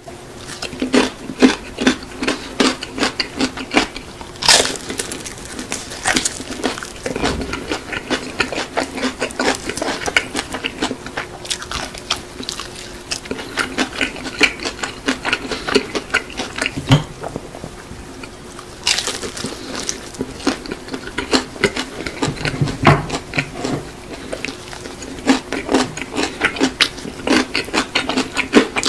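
Close-miked chewing and crunching of seasoned fried chicken, a dense run of crisp clicks and crackles that eases briefly about two-thirds of the way through, over a faint steady hum.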